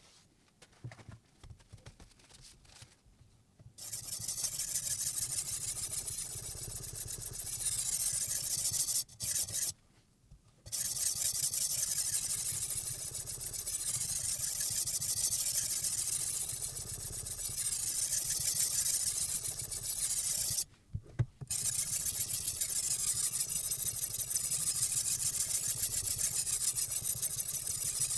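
Silicon carbide water stone on a Hapstone R2 guided sharpener scraping along the edge of a VG10 Damascus chef's knife: a continuous hissing scrape that swells and eases with the strokes. It starts after a few seconds of light clicks and stops briefly twice.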